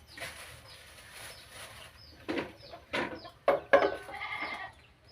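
A goat bleating a few times in the second half, the last call longer and held.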